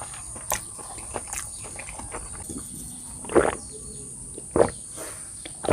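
A person eating close to the microphone: soft chewing clicks, then three louder short mouth sounds about a second apart, starting about three seconds in.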